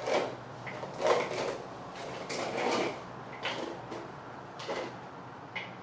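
A wooden brush drawn through coily hair in repeated strokes, about one a second, each a short brushing swish.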